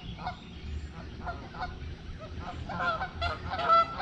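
Birds calling: a steady run of short, repeated pitched calls, about three a second, that become louder and crowded together near the end.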